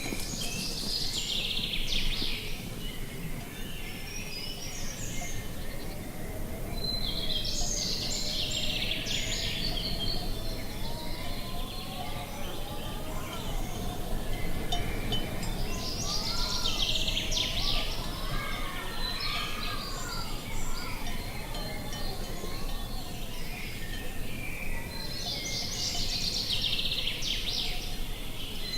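Countryside ambience: birds give trilling phrases that recur every several seconds over a steady low wind-like noise. A wavering call that rises and falls runs for several seconds in the middle.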